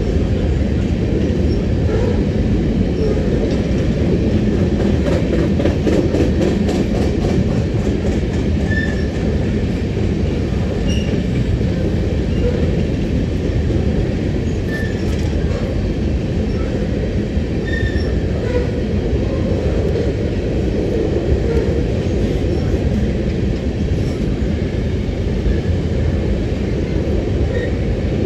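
Empty open-top coal cars of a freight train rolling past on steel wheels: a steady rumble of wheels on rail, with brief high wheel squeaks now and then.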